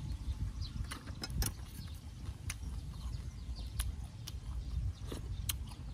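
Chewing a mouthful of crunchy raw greens, with sharp crisp clicks every second or so over a steady low rumble.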